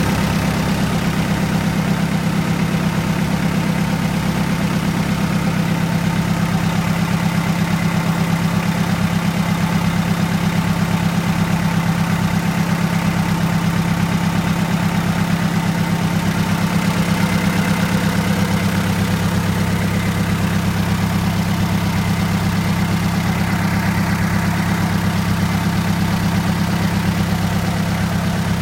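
Hyundai D4BB four-cylinder diesel engine running at a steady idle while its oil pressure is checked. A deeper hum grows stronger a little past halfway.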